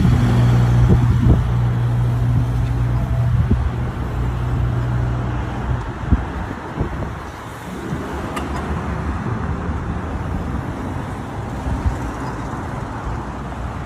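Busy road traffic: a nearby vehicle engine runs with a steady low drone for about the first six seconds, then the noise of passing cars.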